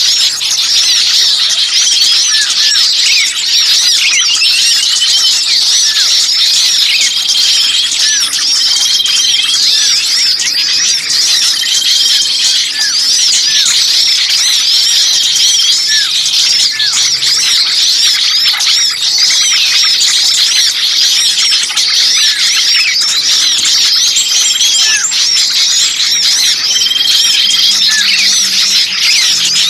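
A dense, noisy chorus of small songbirds chirping and squealing excitedly over one another, with a short level call recurring every few seconds. It is a lure recording of agitated small birds ('burcil ribut'), the kind of commotion used to draw other birds in.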